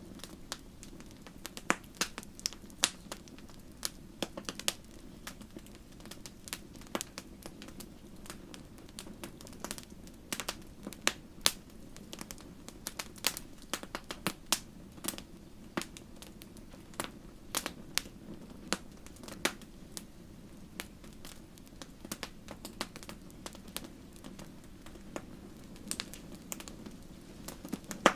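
Wood fire crackling in a fireplace: irregular sharp pops and snaps, several a second at times, over a steady low noise from the burning.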